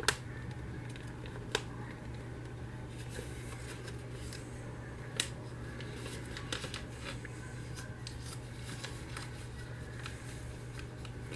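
Sheet of paper being handled, folded and creased by hand: faint rustling with scattered sharp crackles, the loudest at the start, about a second and a half in and about five seconds in, over a steady low hum.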